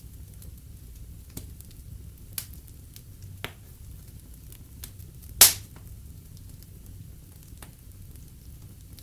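Wood fire in a fireplace crackling, with scattered small pops over a low steady rumble and one loud sharp pop about halfway through.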